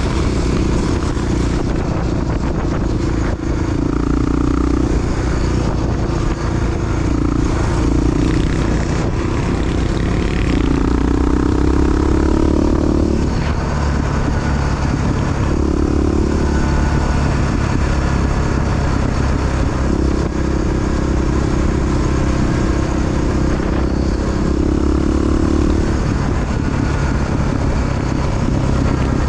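Big-bore Honda XR single-cylinder four-stroke dual-sport motorcycle running under way. The engine note rises and falls several times with throttle changes.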